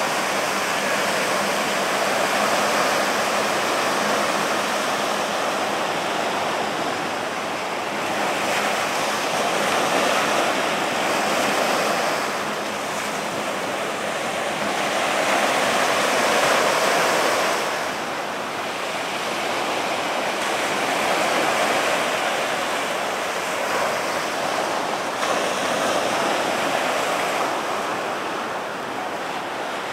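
Ocean surf breaking and washing up the beach, in slow swells that grow louder and fade every several seconds.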